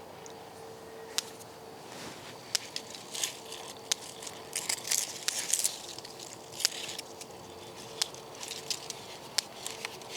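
Irregular dry crackling and rustling with sharp clicks, as of hands pushing through leaves and twigs on an apple tree and handling a fruit's protective bag. A faint steady hum sits underneath.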